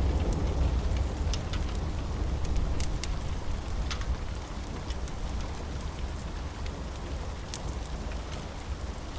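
Steady rain with a deep thunder rumble dying away over the first few seconds, and scattered sharp crackles.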